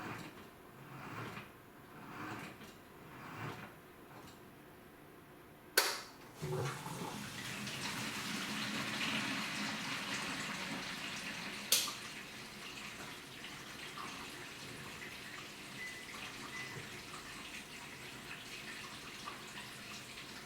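AQUA washing machine: the wash sloshes back and forth about once a second for the first few seconds. After a short pause there is a sharp click, then water starts pouring into the tub and runs on steadily, with a second sharp click about six seconds later.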